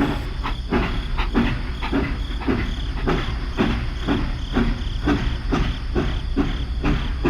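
A small machine running with a steady low hum and a regular knock about twice a second.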